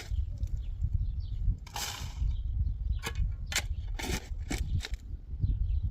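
Several short, dry crunching swishes of cereal stalks, the loudest about two seconds in and a quicker run in the middle, over a steady rumble of wind on the microphone.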